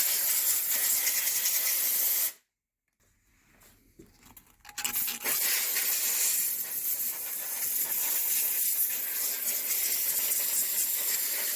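A steady hissing scrub as a metal brake flange face is cleaned up ready for its flange seal; it cuts off about two seconds in and resumes about five seconds in.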